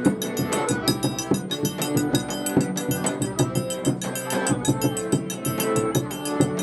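Instrumental passage of folk dance music, with accordion over percussion keeping a fast, even beat.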